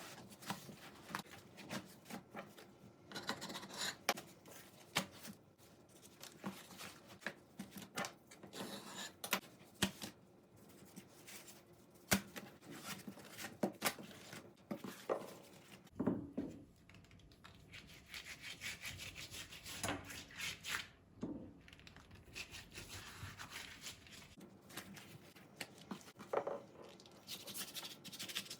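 Kitchen food-preparation sounds: repeated rubbing and scraping with frequent sharp taps and knocks.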